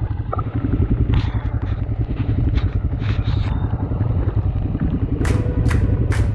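Motorcycle engine running steadily on the move, with a few short hissing bursts in the middle and near the end.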